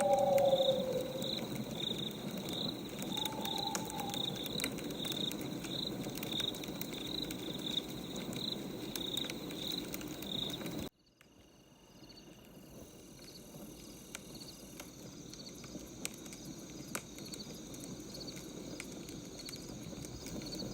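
Night ambience of crickets chirping about twice a second over a crackling wood fire, with a couple of low hoots near the start. The sound cuts out suddenly about halfway through and fades back in.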